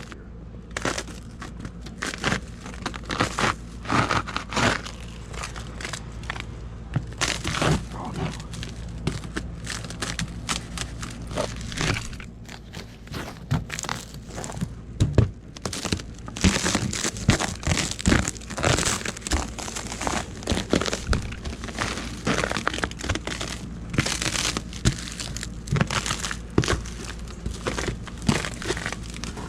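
Ice crust crunching and cracking in a long run of irregular crackles and snaps, over a steady low hum.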